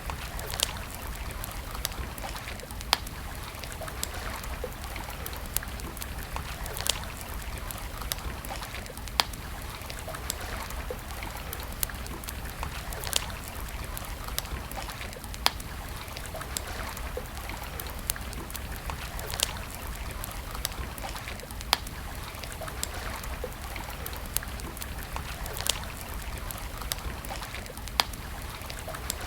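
Wood campfire crackling, with sharp pops every couple of seconds over a steady hiss and a low rumble.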